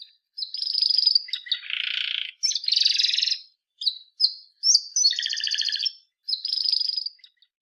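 Canary singing: a run of high, rapid trills and warbling phrases broken by short pauses, with a harsher buzzy phrase early on.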